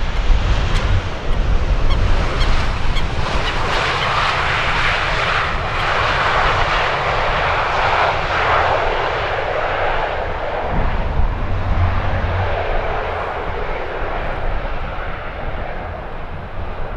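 A jet airliner passing, its engine roar building to a peak mid-way and slowly fading near the end, over gusty wind rumbling on the microphone.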